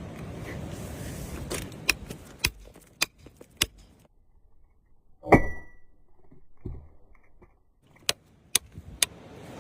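Sharp clicks and knocks of hard objects, over wind noise on the microphone at first. About five clicks, then a louder knock halfway through with a short ringing tone, and three more clicks near the end.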